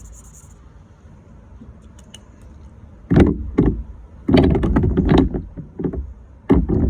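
A quiet stretch, then from about three seconds in a series of loud, irregular thumps and clattering knocks, like objects being handled and set down hard against a surface.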